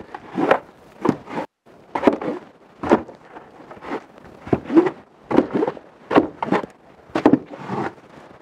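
Footsteps crunching through deep fresh snow, about a dozen heavy steps in uneven rhythm.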